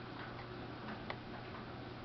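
A steady low hum with two light, sharp clicks about a second apart, from a Samsung VRT washing machine running quietly.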